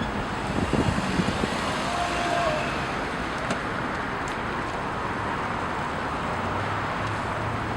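Steady road traffic noise, with a few short knocks about a second in.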